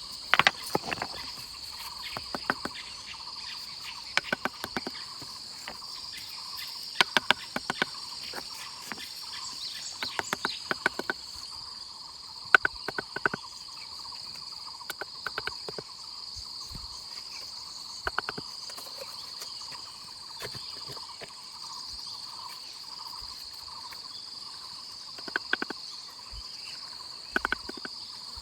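Steady high-pitched drone of crickets and other insects, with irregular sharp knocks and clicks every few seconds.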